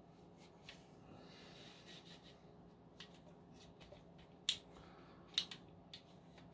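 Faint handling noise with a few sharp clicks of hard plastic, two louder ones about four and a half and five and a half seconds in, as parts of a Dyson V10 stick vacuum are handled during cleaning.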